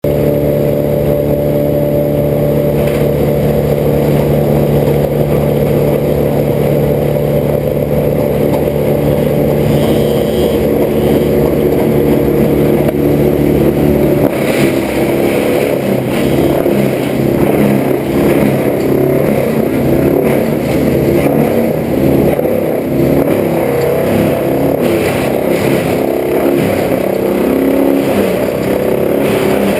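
An engine running steadily at an even pitch; about halfway through its sound changes suddenly to a rougher, wavering one.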